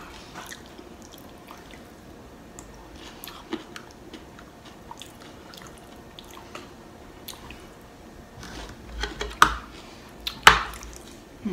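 Close-up wet chewing of soggy loaded nachos, with faint smacking clicks. Near the end a few louder sharp clicks as a metal spoon scoops food from the plate.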